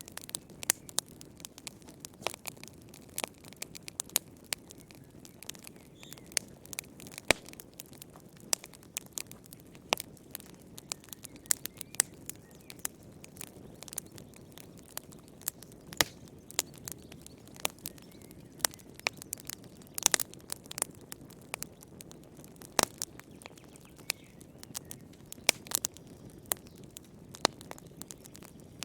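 Wood fire in a fireplace crackling, with irregular sharp pops and snaps over a soft low rumble of burning.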